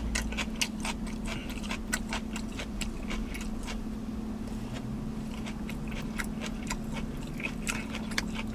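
Close-up chewing of oxtail meat and rice: irregular wet mouth clicks and smacks, several a second, over a steady low hum.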